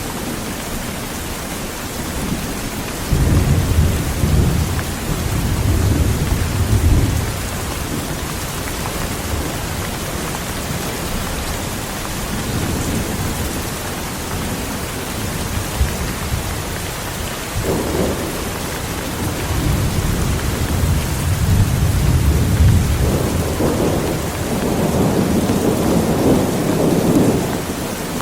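Heavy rain falling steadily, with thunder rumbling twice: a long low roll a few seconds in, and a second roll that starts with a sharper clap about two-thirds of the way through and keeps rumbling until near the end.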